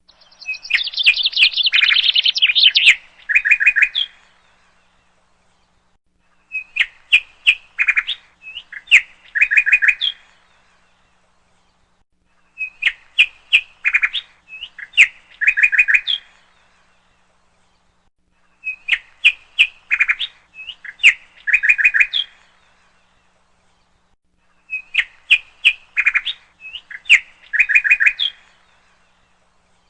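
Bird chirping in short, sharp phrases, a dense burst of chirps at first, then the same phrase of chirps and quick trills repeating identically about every six seconds with silence between, like a looped recording.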